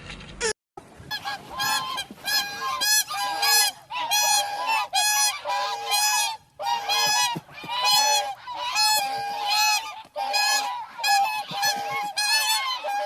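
A farm bird honking over and over in short, loud calls, two or three a second, in runs broken by brief pauses.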